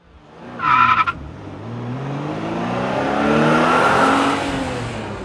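A brief high screech, then a car engine revving up with its pitch rising, loudest near four seconds in, then easing off as it falls away.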